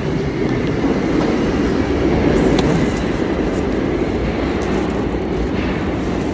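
Subway train running: a steady, loud rumble with a few light clicks.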